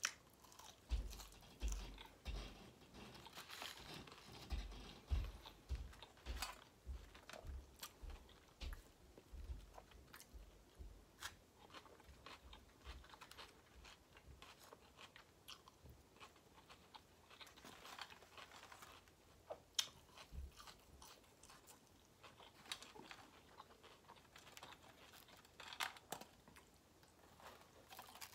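A person chewing and crunching fried fast food close to the microphone, with many small wet clicks and soft low thumps, mostly in the first half.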